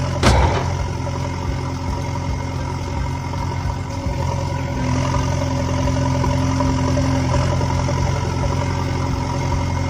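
Mini tractor engine idling steadily, a low hum with several fixed tones. Just after the start, a short sudden sound with a quickly falling pitch.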